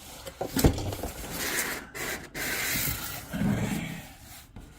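Cardboard packaging being handled as a vacuum cleaner box is unpacked: a sharp knock about half a second in, then rough rubbing and scraping of cardboard in two stretches.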